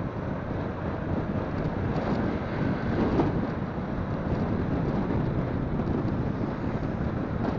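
Wind rushing and buffeting over the microphone of a moving motorcycle, with the motorcycle's running and road noise underneath. The noise is steady, with a brief swell about three seconds in.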